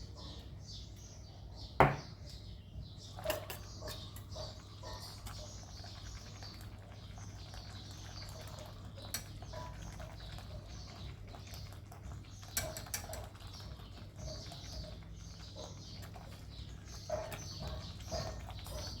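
Small birds chirping repeatedly in the background, with a steady low hum underneath. A few sharp clinks and knocks of a utensil against a pot, the loudest about two seconds in.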